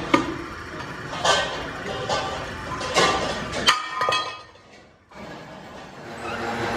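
Sharp clanks of steel being struck, each with a short metallic ring, four times in the first few seconds. After a brief drop-out a steady machine hum builds up near the end.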